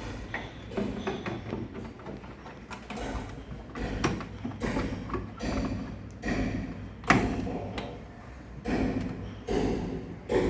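Irregular clicks, knocks and rattles of parts being handled while a refrigerator is worked on, with one sharp knock about seven seconds in.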